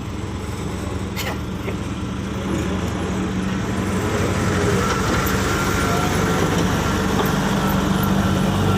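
Heavy vehicle engine running steadily and growing louder, with a single sharp click about a second in.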